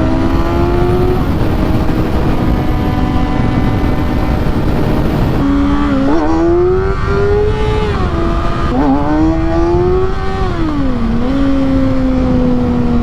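Inline-four 600cc sport bike engine under way: the note holds and slowly sinks, then about halfway it climbs again with quick dips between rising runs, like gear changes under throttle, and eases off near the end. A heavy rush of wind on the microphone runs underneath.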